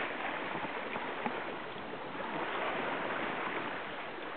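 Steady rush of water along the bow of a Catalina 22 sailboat under way, an even hiss with a couple of faint ticks.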